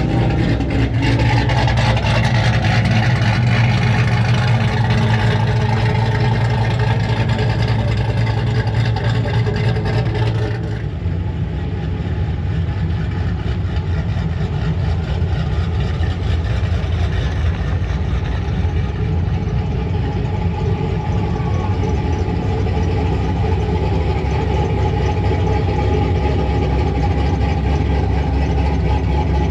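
Truck engines running loudly and steadily at idle, a deep rumble with a steady pitch. About ten seconds in, the sound changes abruptly: the brighter upper part drops away and a lower, rougher rumble carries on.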